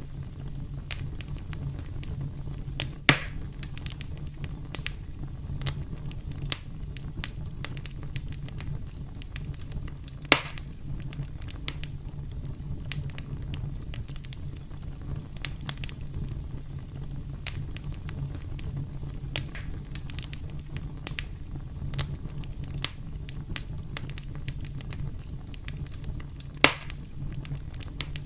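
Campfire burning with a steady low rumble and frequent small crackles, and three louder pops from the burning wood, about 3, 10 and 27 seconds in.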